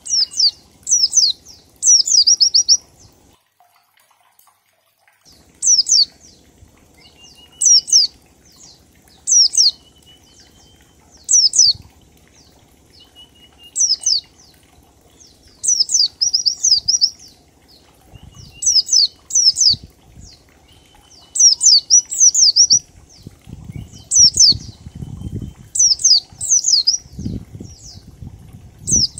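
White-eye (pleci) singing in the 'ngalas' style: short bursts of two to four quick, steeply falling high notes, repeated about every two seconds, with a faint lower warble between some bursts. Low rumbling bursts come in toward the end.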